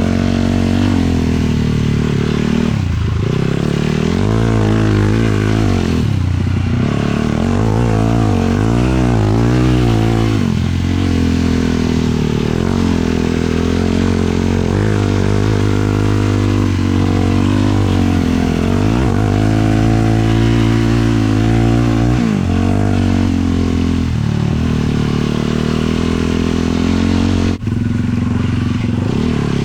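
Single-cylinder 450cc four-stroke sport quad engine running under load, its pitch rising and falling over and over as the throttle is worked on and off. The sound drops out for an instant near the end.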